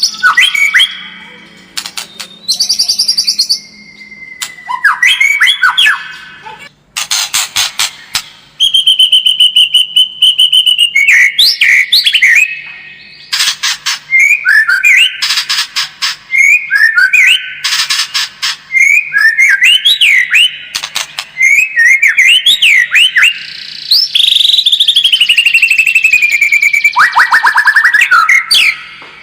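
White-rumped shama singing a loud, varied song of clear whistled notes that glide up and down, short repeated phrases, and several harsh rapid rattles, with a long falling whistle near the end.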